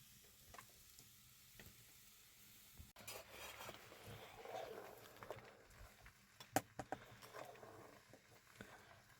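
Near silence with faint scattered clicks and light rustling, and a few sharper taps past the middle.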